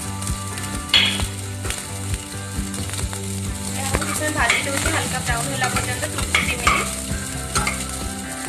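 Chopped onions and cumin seeds sizzling in hot oil in an aluminium pressure cooker, with a spatula stirring and scraping against the pot, the scrapes coming thickest from about four to seven seconds in. A steady low hum runs underneath.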